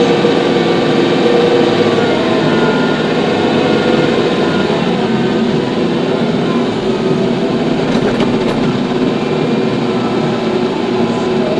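TYM T574 tractor's diesel engine running steadily at a constant speed.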